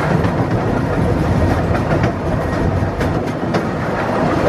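Miniature park steam train running along its track, heard from an open passenger carriage: a steady rumble of wheels on rail with scattered clickety-clack clicks at the rail joints.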